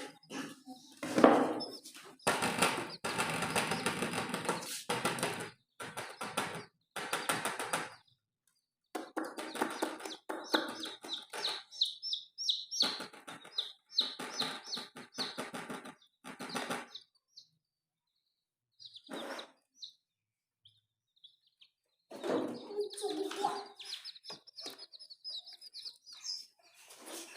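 Baby chicks peeping in short, high chirps, mixed with stretches of noisy scuffling. The sound drops out to silence several times, with a long gap a little past the middle.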